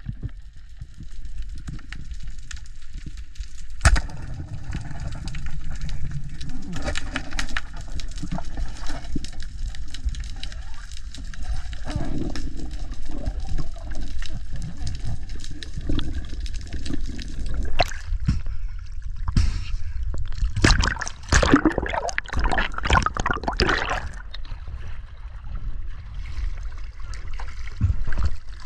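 Water sloshing and gurgling over a low rumble, with scattered knocks and a louder, busier stretch about two-thirds of the way through.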